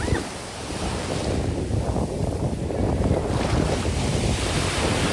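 Ocean surf washing onto the beach, with wind buffeting the microphone; the wash swells louder about three seconds in.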